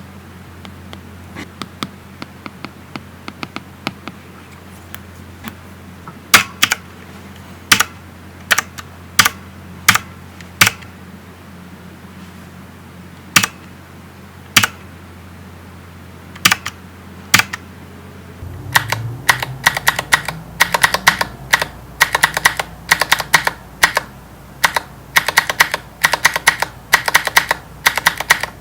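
Sharp taps on an iPad, first as single taps spaced a second or more apart. About two-thirds in they become a quick run of clicks, like typing, over a low steady hum.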